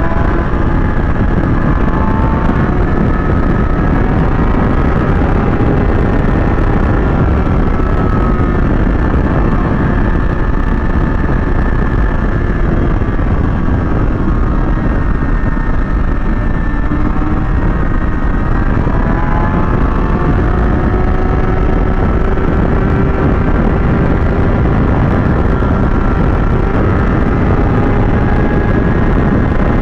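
Kawasaki ZX-6R's inline-four engine running steadily at highway speed, its pitch drifting slowly down and back up with the throttle, under a heavy rush of wind on the microphone.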